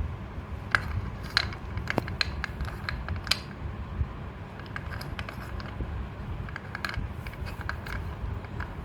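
Scattered light clicks and taps of small craft objects being handled, over a low steady rumble.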